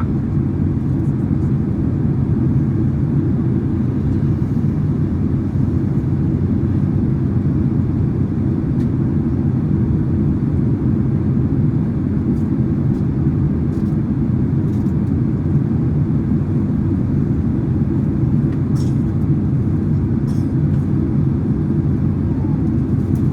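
Steady low cabin rumble of a Boeing 767-300ER's engines and airflow heard from a passenger seat during descent.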